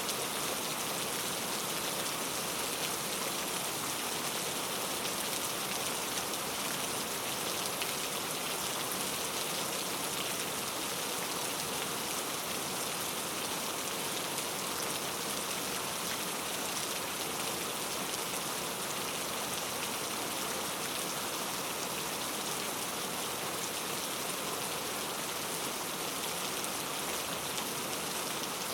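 Steady rainfall: an even hiss of rain with a fine patter of individual drops, holding the same level throughout.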